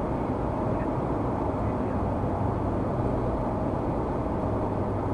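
Steady road and engine noise of a car cruising at freeway speed, heard inside the cabin through a dashcam microphone.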